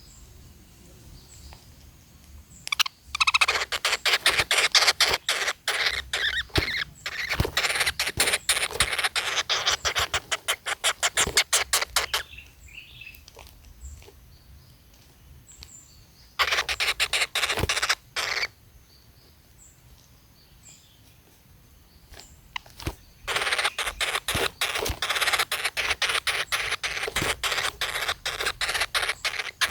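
Woodpecker nestlings calling from the nest hole in rapid, rattling runs of calls, in three long bursts, with faint high chirps in between.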